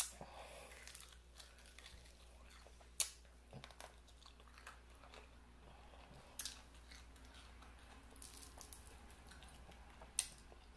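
Close-miked chewing of air-fried chicken wings, soft and wet, broken by a few sharp crunchy snaps of bites spaced a few seconds apart.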